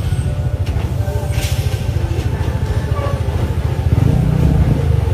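Diesel engine of a large truck running under load while it maneuvers, a dense low rumble that grows louder about four seconds in. A short hiss cuts in about a second and a half in.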